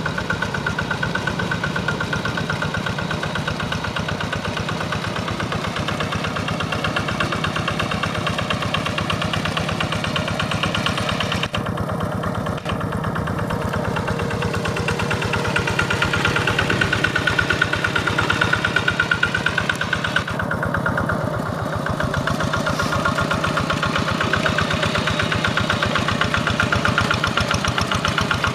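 Quick G1000 hand tractor's engine running steadily with a fast, even firing beat. It eases off briefly twice, about 12 and 21 seconds in, and runs a little louder in between.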